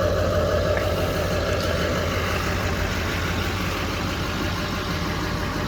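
Chevy truck diesel engine running steadily at idle, an even low rumble. The engine has about 340,000 miles on it yet runs smoothly and tight.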